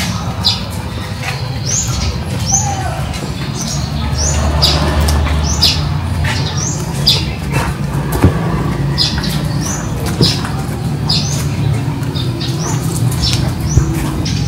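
Small birds chirping: short, high chirps, one or two a second, over a steady low hum.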